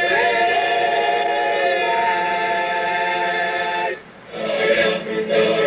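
Group of male voices singing a cappella in close harmony, holding a long final chord that ends about four seconds in; after a brief gap, other music starts.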